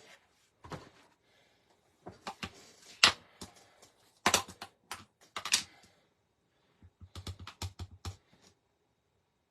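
A hand-held paper punch being squeezed and released on card stock, giving a series of sharp clicks and snaps. The loudest snap comes about three seconds in, and a quick run of lighter clicks follows near the end.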